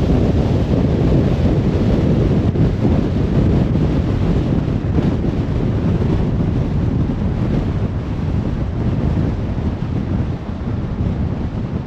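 A car driving at motorway speed: a steady rumble of tyre and wind noise, strongest in the low range, easing slightly near the end.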